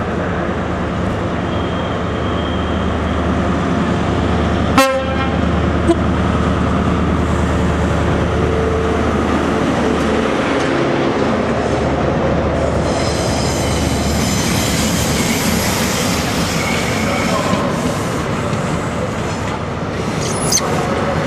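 A High Speed Train's diesel power car runs past close by, followed by its carriages rolling along the rails with a steady rumble. A single sharp bang sounds about five seconds in, and high-pitched squealing from the wheels comes in around the middle.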